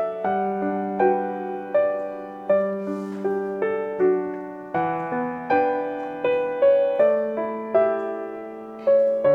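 Background music: a gentle solo piano melody, single notes struck about once or twice a second, each ringing and fading.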